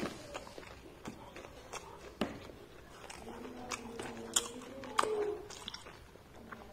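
Mouth-close chewing of crisp fried onion pakoras (piyaji), with scattered crunchy crackles as the fritter breaks up. A closed-mouth hum sounds for about two seconds midway.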